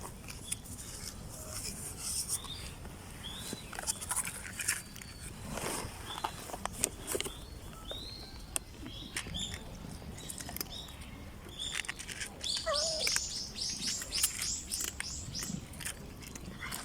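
Outdoor birds chirping and calling. About three-quarters of the way through comes a quick run of short, high notes, about five a second. Scattered light clicks and taps run under the calls.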